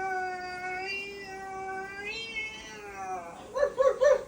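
French bulldog puppy making a long, drawn-out whine that lifts slightly and then slides down, followed near the end by three short, louder wavering cries.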